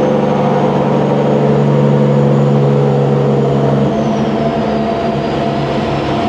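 Semi truck's diesel engine with 8-inch exhaust stacks, pulling with a steady low drone, then easing off about four seconds in as the high turbo whistle slides down in pitch.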